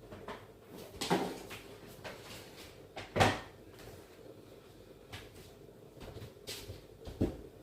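A few knocks and bumps of something being handled, the loudest about three seconds in, with another near the end.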